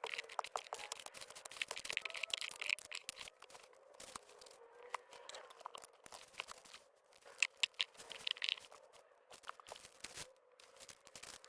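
Rustling and crinkling of papers, napkins and small clutter being rummaged through and handled, with scattered light clicks and knocks.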